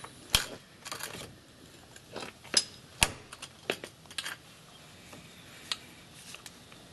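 Scattered metal clicks and clinks of tools being handled: the bearing grease packer and grease gun being moved and set at the wheel hub. The clicks come in an irregular run over the first four seconds or so, then a few lone ones.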